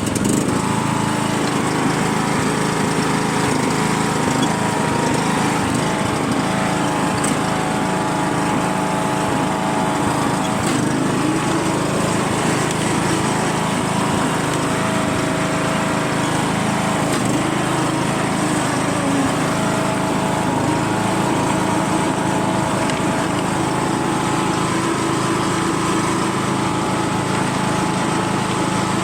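John Deere tractor engine running steadily at an even speed, its pitch holding nearly constant, just after being started.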